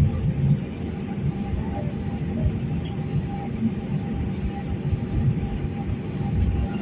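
Steady low rumble inside an airliner cabin as the jet taxis after landing, with faint thin tones from the engines above it.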